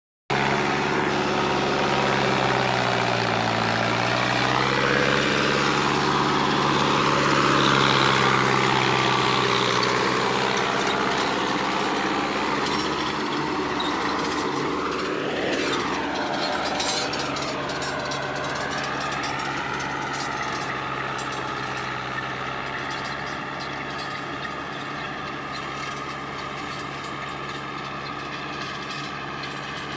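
Mahindra Arjun Novo 605 DI-MS 4WD tractor's diesel engine running, its speed dipping and then rising about five seconds in, with another rise about halfway through. It then settles and gradually gets quieter.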